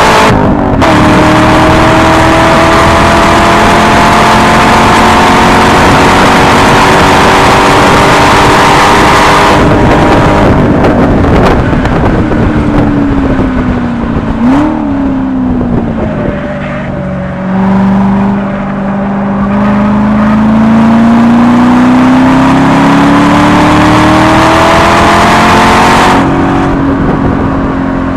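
Chevrolet C6 Corvette Grand Sport's 6.2-litre LS3 V8 with an NPP exhaust, driven hard on track. It holds high revs with a slowly rising pitch, lifts off about ten seconds in and winds down, with a quick rev blip of a downshift partway through, then pulls hard again with the pitch climbing and lifts off near the end.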